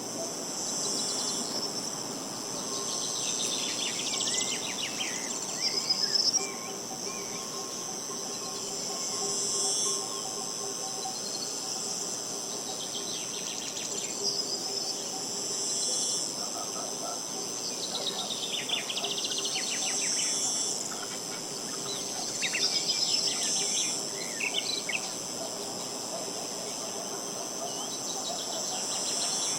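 A steady, high-pitched insect chorus, with a songbird singing short, falling, trilled phrases every four or five seconds.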